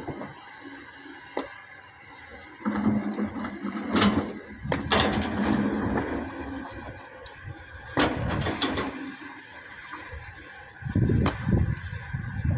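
Heavy machinery at work loading sand: a diesel engine running with a low hum and louder noisy stretches, broken by several sharp metallic clanks and knocks, about five spread through it.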